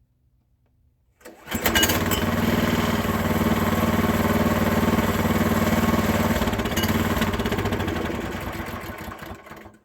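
Small gasoline engine of a Harbor Freight bandsaw sawmill, started about a second in and running steadily, then dying away just before the end.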